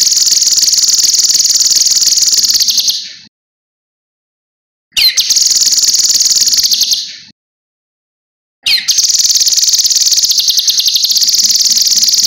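Cucak kinoi songbird singing long, high-pitched rattling trills in three bouts of about two to four seconds each, with short silent gaps between them.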